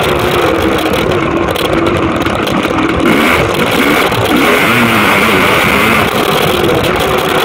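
Honda CR500R's single-cylinder two-stroke engine running hard under way on a dirt track, the revs rising and falling as the throttle is worked.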